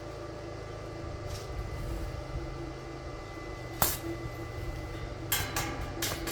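A steady low hum with sharp metallic clinks: one about four seconds in, then a quick cluster of several near the end, as metal pieces or tools are knocked together during shelf-building work.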